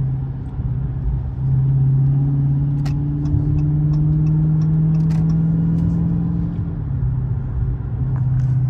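Supercharged 6.2-litre HEMI V8 of a Dodge Hellcat Redeye, heard from inside the cabin while driving. Its low, steady drone steps up in pitch about a second and a half in, holds, and drops back a little before the end.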